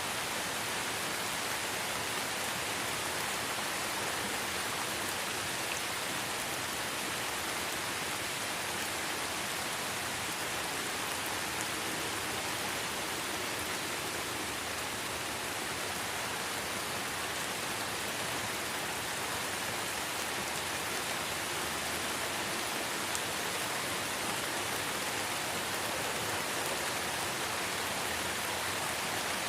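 Steady light rain falling on forest foliage, an even hiss with a few faint individual drop ticks.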